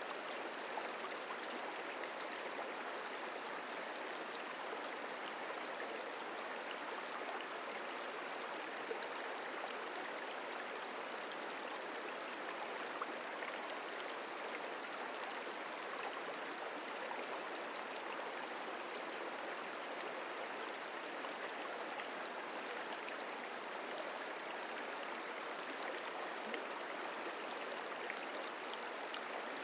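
The Merced River flowing, a steady, even rush of running water with a few faint ticks.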